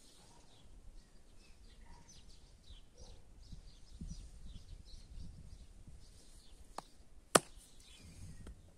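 Faint birdsong, scattered small chirps over a low rumble, with two sharp knocks near the end, the second much louder.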